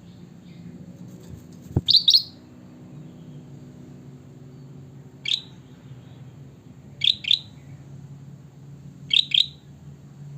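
Kutilang bulbul calling four times: three of the calls are two quick, sharp notes and one is a single note, a few seconds apart. A sharp click comes just before the first call, over a steady low hum.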